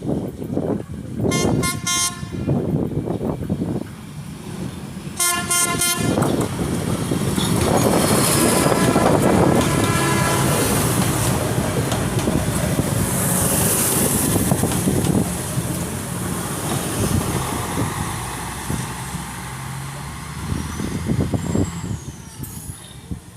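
Diesel VLT light rail train sounding its horn in two short blasts, about one and five seconds in, then running past, the noise of its engine and wheels swelling to loudest around eight to fifteen seconds in and then fading away.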